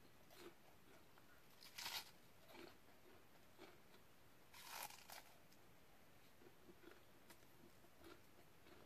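A person biting into and chewing food close to the microphone: a few soft crunchy bites, the loudest about two seconds in and again near five seconds, with faint chewing clicks in between.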